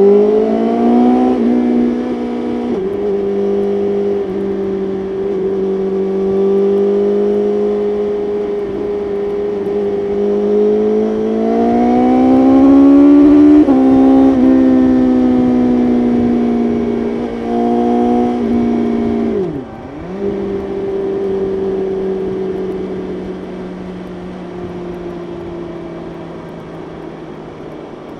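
BMW S1000RR's inline-four engine at highway speed, heard from on the bike. It pulls hard through several quick upshifts at the start, holds steady revs, climbs again to another shift about halfway, drops sharply for a moment about two-thirds in as the throttle is closed and reopened, then settles into a steady cruise that slowly eases off near the end.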